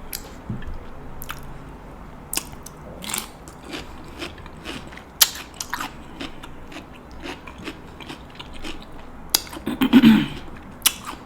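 Steamed king crab shell cracking and snapping as it is broken apart by hand, in scattered sharp clicks mixed with chewing. A louder run of crunching comes about ten seconds in.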